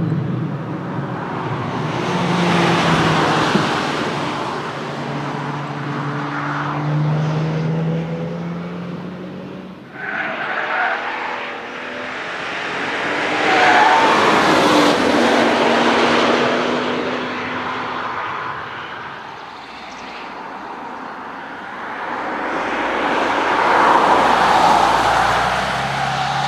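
Fast cars passing one after another on a race track, about three pass-bys, each engine note swelling and fading as it goes by, with the pitch rising and falling.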